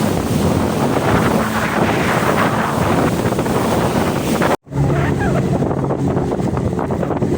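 Yamaha WaveRunner jet ski engine running under way, with heavy wind buffeting on the microphone and rushing water. The sound cuts out for an instant a little past four seconds in, and the engine comes back at a lower, steady pitch.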